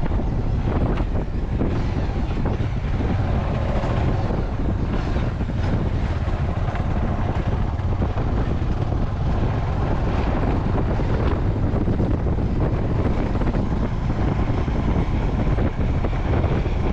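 Wind rushing over the microphone of a motorcycle-mounted action camera while riding, a steady low rumble of wind buffeting mixed with the motorcycle's running and road noise.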